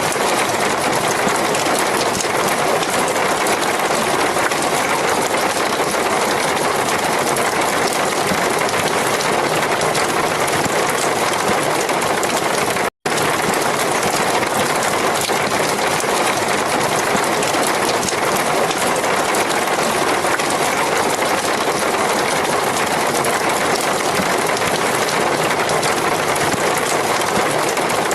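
Steady heavy rain, an even hiss with no thunder claps, cutting out to silence for an instant about halfway through.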